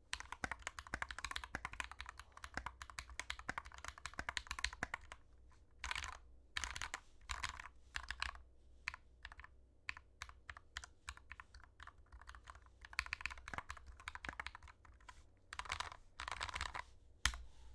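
Mechanical keyboard with lubed Glorious Panda tactile switches being typed on. About five seconds of fast, continuous typing comes first, then short bursts of keystrokes with brief pauses between them.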